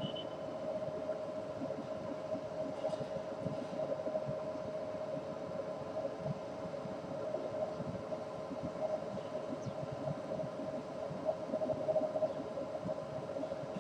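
A steady mechanical hum with a fluttering low rumble beneath it. A few faint, brief high bird chirps come through now and then, one right at the start and a couple more about three seconds in.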